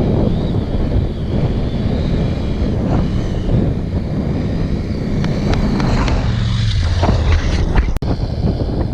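KTM 990 Adventure's V-twin engine running as the bike is ridden, with wind noise on the onboard camera microphone. The engine note drops about six seconds in, and a few sharp knocks come near the end.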